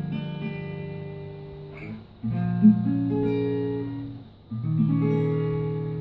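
Acoustic guitar playing a song's instrumental intro: a chord rings out, then new chords are struck about two seconds in and again about four and a half seconds in, each left to ring and fade.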